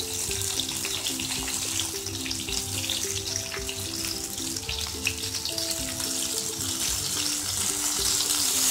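Stuffed parwal (pointed gourd) sizzling in shallow oil in a frying pan: a steady hiss with fine crackles. Soft background music with a simple melody plays under it.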